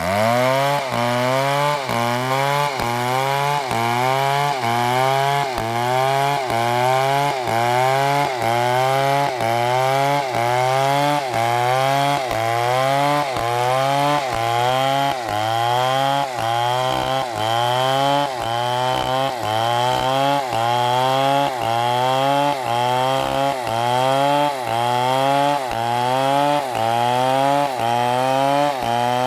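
MS720 chainsaw running under load while cutting wood, its engine pitch rising and dropping back about once a second in a steady rhythm.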